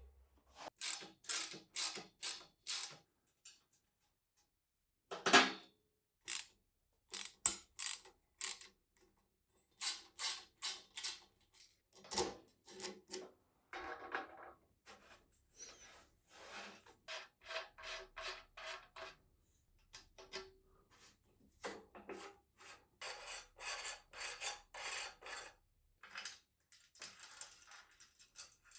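Repeated hand rubbing strokes on a workpiece, about two a second, coming in runs separated by short pauses.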